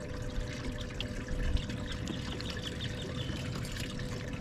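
Water trickling and pouring steadily, with a faint constant hum underneath.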